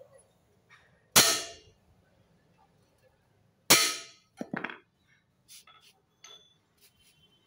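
Two sharp hammer blows on metal about two and a half seconds apart, each ringing briefly, followed by a few lighter clinks: a dent in a motorcycle exhaust being knocked out.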